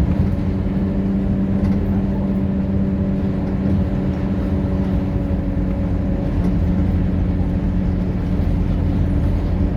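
Scania K230UB bus's diesel engine running steadily, a constant low hum with even engine tones and no big change in revs.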